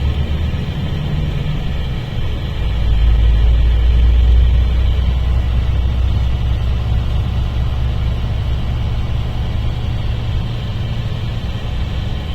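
Mercedes-Benz O-500RSD coach's diesel engine running with a deep, steady rumble, which dips briefly about two seconds in and then swells back up.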